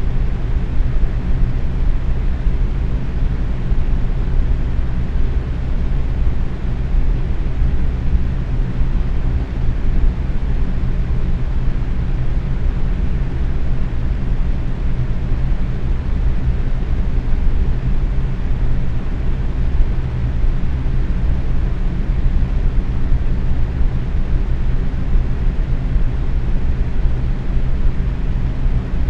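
Electric box fan running steadily on medium speed: a constant airy whoosh with a low motor hum.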